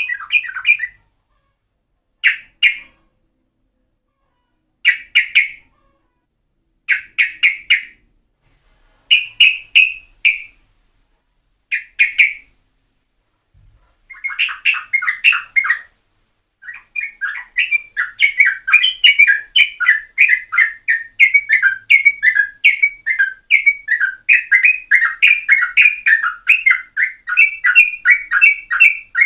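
Yellow-vented bulbul singing: short phrases about two seconds apart, then a continuous rapid chattering song through the second half.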